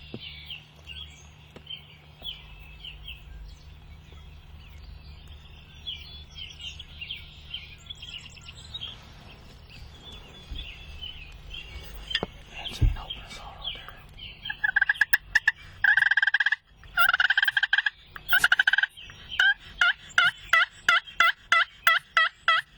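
Turkey gobbling. It is faint at first under scattered songbird chirps, then loud and repeated from about fourteen seconds in, ending in a quick run of short, rapid calls.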